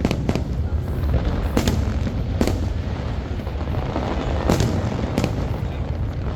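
Aerial fireworks shells bursting in a series of sharp bangs, about five of them spaced a second or so apart, over a steady low rumble.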